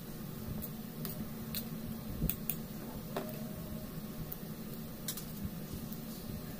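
Fork mashing boiled potatoes in a bowl: soft squishing with scattered clicks and scrapes of the fork against the bowl, one about three seconds in with a brief ring, over a steady low background hum.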